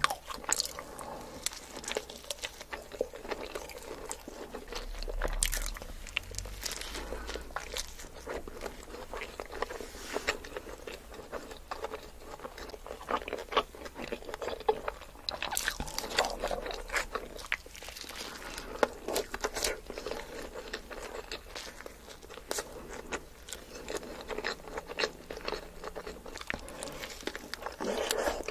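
Close-miked eating sounds: biting into and chewing a cheese-covered cheeseburger and cheese fries, with many sharp crunching clicks and crackles between the chews.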